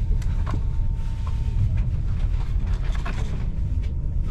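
Passenger train running at speed, heard from inside the coach: a steady low rumble of wheels on the track with a few sharp clicks and knocks. A faint thin whine stops about a second and a half in.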